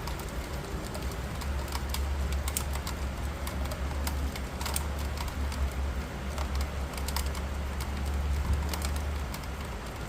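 Hail and rain hitting a hard surface: many irregular sharp ticks of hailstones over a hiss of rain, with a steady low hum underneath.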